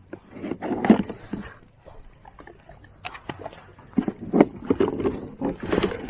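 Irregular knocks, clatter and splashing in a small fishing boat while a hooked fish is fought and brought in alongside.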